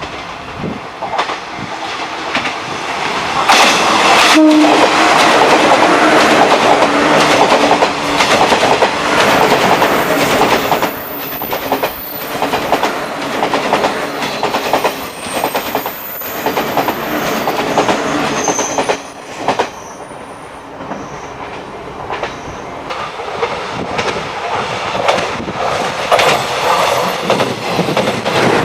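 Electric train passing close by, wheels clattering over the rail joints, with a short horn blast about four seconds in. The noise eases about twenty seconds in and builds again near the end as another train approaches.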